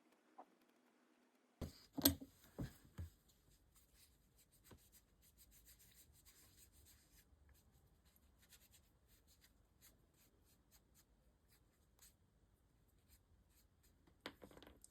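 Faint scratching and rubbing of small handwork on a diecast model car, with a few light knocks about two seconds in and again near the end.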